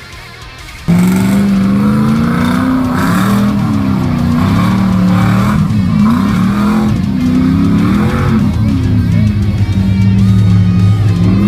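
A mud bog truck's engine revving hard, starting suddenly about a second in, its pitch climbing and falling again and again, then holding steadier near the end.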